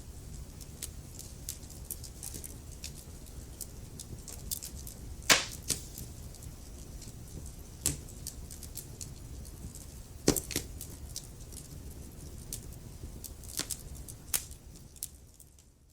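Wood fire crackling in a fireplace: a steady low rumble of burning with frequent small crackles and a few louder pops, the loudest about five seconds in and another about ten seconds in. It fades out at the very end.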